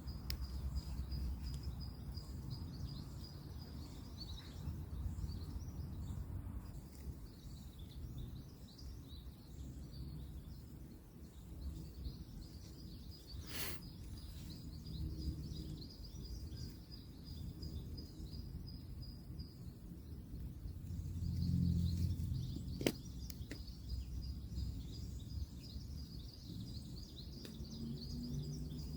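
Woodland ambience: a continuous high, pulsing trill over the low rumble of distant road traffic, with two sharp clicks, one about halfway through and another about nine seconds later.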